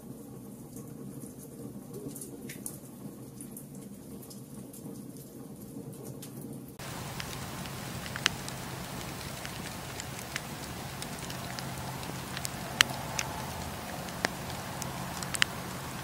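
Wood campfire crackling, with scattered sharp pops and snaps over a steady hiss. About seven seconds in the sound switches abruptly to a brighter, hissier crackle with more and louder pops, the loudest about three-quarters of the way through.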